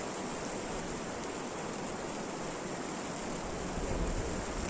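Steady rain falling, an even rushing hiss, with a brief low rumble near the end.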